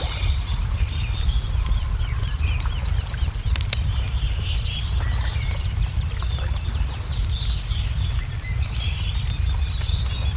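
Wood fire crackling with scattered sharp pops over a steady low rumble, while small birds chirp and twitter throughout.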